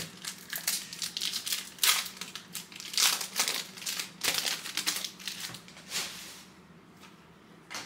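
Plastic foil wrapper of a trading card pack crinkling and tearing as it is opened by hand, a dense run of sharp crackles that dies away after about six seconds.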